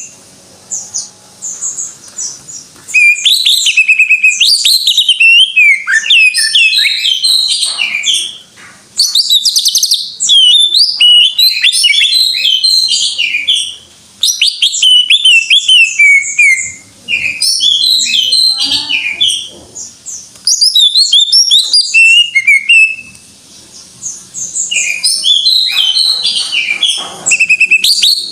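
Green leafbird (cucak ijo) singing vigorously: loud, fast runs of varied whistled notes and chirps. Short pauses come about two seconds in, near eight, fourteen and seventeen seconds, and a longer one around twenty-three to twenty-five seconds.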